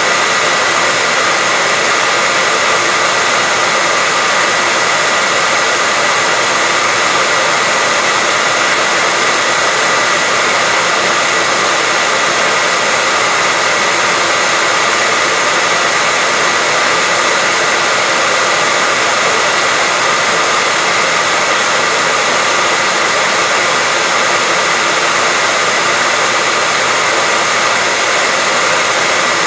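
Hair dryer running steadily: a constant rushing blow of air with a thin, steady high whine from the motor, unchanging throughout.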